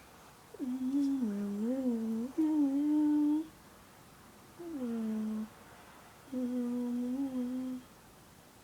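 A person humming a short wandering tune in three phrases, the longest first, with short pauses between.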